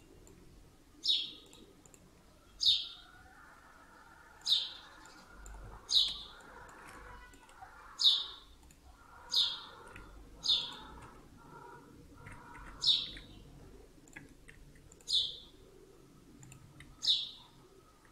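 A bird chirping over and over: about ten short, sharp chirps, each falling quickly in pitch, spaced a second or two apart.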